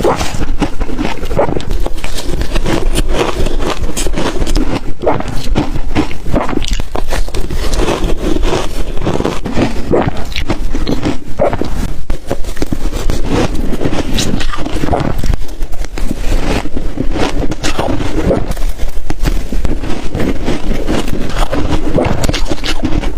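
Close-miked ice being bitten and crunched between the teeth, the ice dusted with matcha and milk powder: a dense, continuous run of crackling crunches, one after another.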